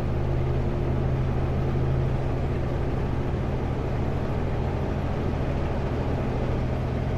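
Kenworth W900L semi truck's diesel engine droning steadily from inside the cab while driving, over a constant haze of tyre and road noise.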